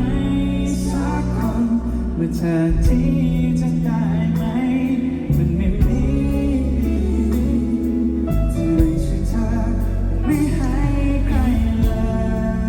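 Live band playing a pop song with singing over guitars, bass and drums.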